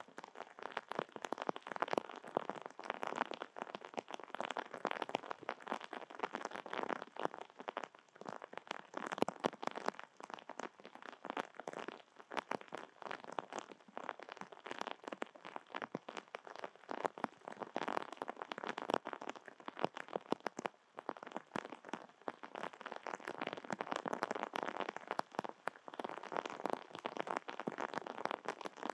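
Rain falling, drops striking surfaces close to the microphone in a dense, irregular crackle of small clicks.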